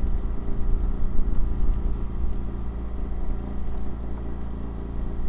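Sailboat's engine running at a steady speed, a constant pitched drone over a low rumble.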